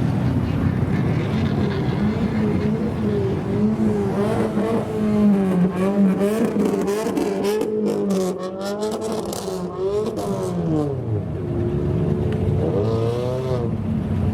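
A kaido-racer style classic car engine idling, then revved in repeated throttle blips so that its pitch rises and falls several times, with sharp crackles during the middle of the revving.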